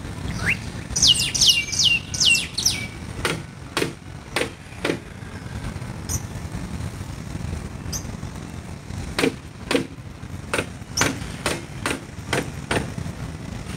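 A bird calls a quick run of about six down-slurred chirps early on, over a steady low outdoor rumble. Sharp clicks, many in pairs about half a second apart, follow through the rest.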